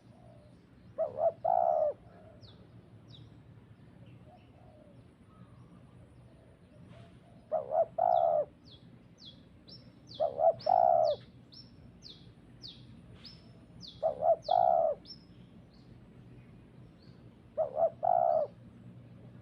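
A dove cooing five times, each phrase a couple of short notes followed by a longer coo, about every three to four seconds. Between them a small bird gives a quick run of thin, high, falling chirps.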